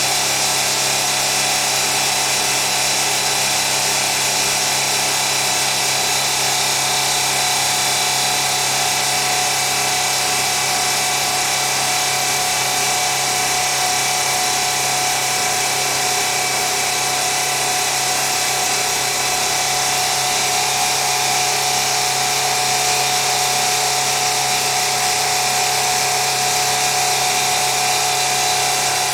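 Factory machinery running steadily: a dense, even din with a low hum and several high, steady whines running through it.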